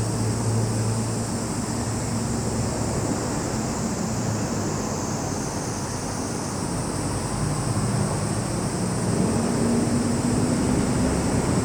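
Steady high-pitched drone of summer insects (cicadas and crickets), with the low hum of a motor vehicle's engine underneath that grows louder near the end.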